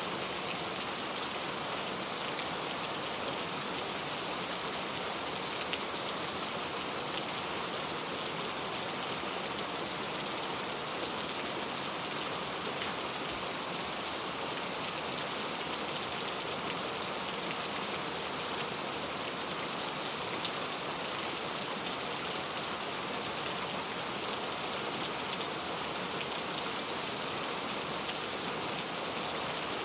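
Steady rainfall with many fine, close drop ticks pattering on a surface, even and unchanging throughout.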